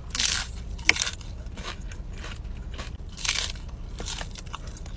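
Someone biting into and chewing crunchy food close to the microphone: two loud crunches, one at the very start and one about three seconds in, with a sharp click and smaller crackles between them.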